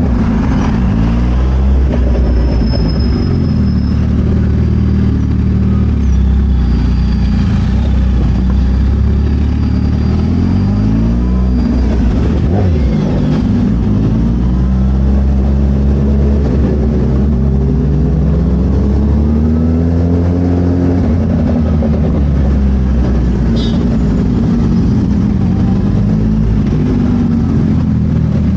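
Suzuki Hayabusa inline-four engine running at low revs through a Brock's Performance carbon full exhaust system. Its pitch rises and falls several times with the throttle, and the level stays loud and steady.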